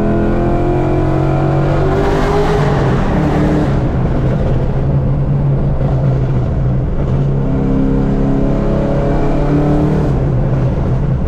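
Pontiac G8's engine and exhaust running loud on the move, climbing in pitch over the first few seconds as it accelerates, then holding a steady drone while cruising.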